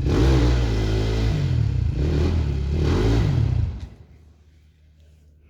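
Enduro motorcycle engine revving hard, its pitch rising and falling with the throttle, then dropping away about three and a half seconds in to a faint low hum.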